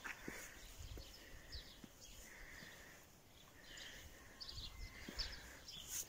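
Small birds chirping and calling faintly: a scatter of short, high chirps, sometimes several a second, over a low rumble.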